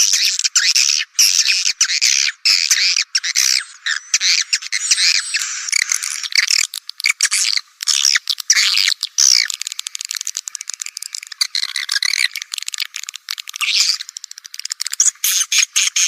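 Swiftlet lure call recording used in swiftlet farming: a dense, continuous chorus of rapid high-pitched swiftlet chirps, twitters and clicks, played to call swiftlets to a bird house. It has nothing in the low range.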